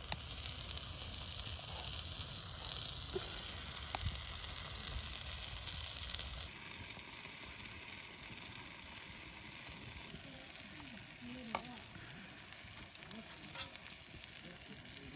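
Food sizzling as it fries in a pan, a steady hiss with a few faint clicks.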